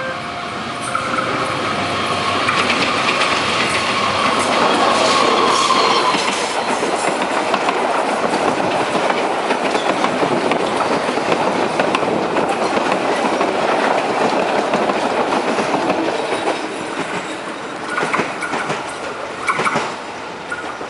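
BB 203 diesel-electric locomotive and its passenger coaches passing close by. The train is loudest about five seconds in, as the locomotive goes past, then the coaches roll by with a steady clatter of wheels over the rail joints. It fades near the end, with a few last clacks.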